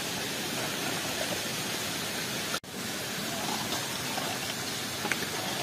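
Steady rain falling, a continuous even hiss, with a brief gap about halfway through.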